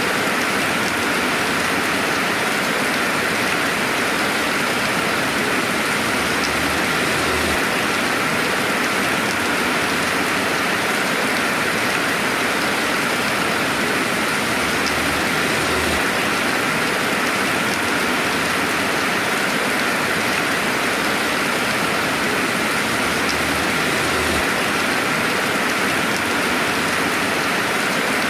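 Steady rainfall without thunder: an even hiss of rain with a few faint drop ticks.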